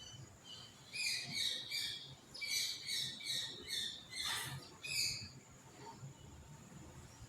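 House sparrows chirping: quick runs of short, repeated chirps, about three or four a second, with a harsher, lower call among them about four seconds in.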